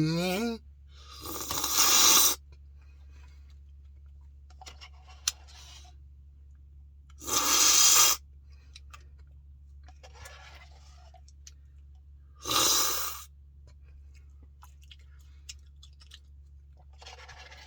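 Eating a Blizzard close to the microphone: a spoon scraping and digging in the cup, with crunching, in three loud bursts under a second long about 1, 7 and 12 seconds in. Fainter rustles come between the bursts, over a steady low hum.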